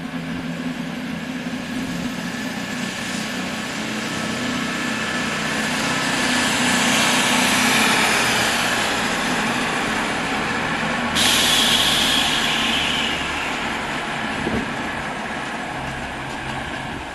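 Train noise at a station platform, building to a peak and then dying away, with a sudden loud hiss of air about two-thirds of the way in that fades over a couple of seconds, typical of air brakes.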